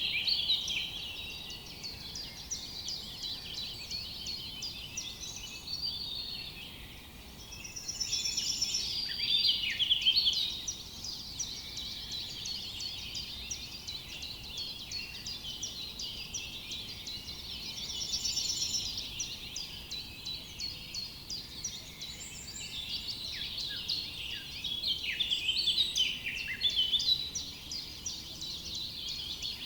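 Many forest birds singing at once, a dense chorus of overlapping chirps and trills that swells about eight seconds in and again near the end.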